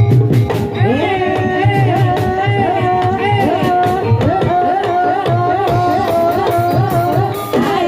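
Javanese gamelan music accompanying a kuda kepang (ebeg) dance: kendang hand-drum strokes under a high, wavering, ornamented sung melody.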